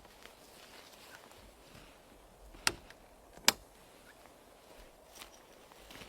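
Two sharp clicks or knocks a little under a second apart, then a fainter one, over a faint steady hiss.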